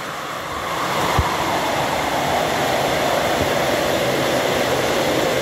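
Heavy rain falling on dense vegetation: a loud, steady hiss, with a soft low bump about a second in.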